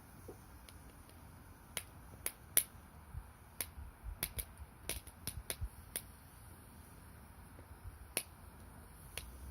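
Firewood burning in a small camping wood stove, crackling with irregular sharp pops over a low steady rumble. The pops come thickest in the middle and thin out towards the end.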